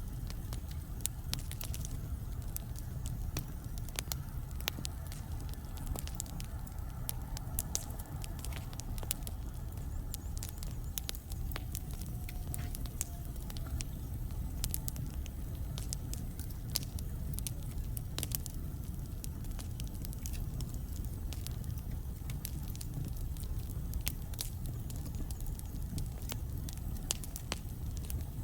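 Wood fire burning in a fireplace: a steady low rumble with frequent sharp crackles and pops from the burning logs. A faint whistle slowly falls in pitch about a third of the way in.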